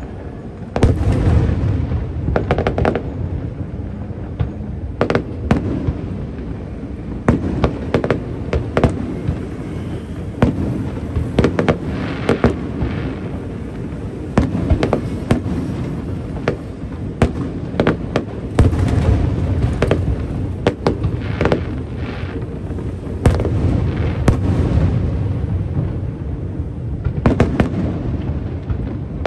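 Fireworks display: aerial shells bursting in quick succession, many sharp bangs and crackles over a continuous low rumble of booms.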